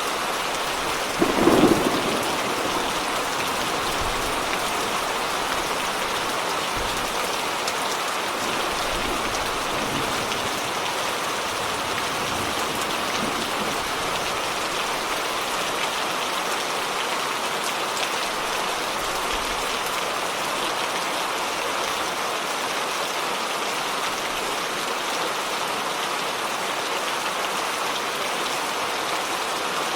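Steady rain falling during a thunderstorm, with one sudden thunderclap about a second in that trails off in a short rumble.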